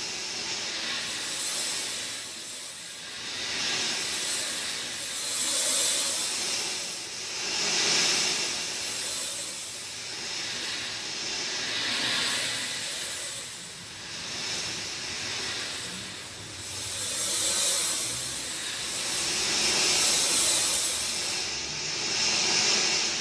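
Rain falling as a steady hiss that swells and ebbs every two to three seconds.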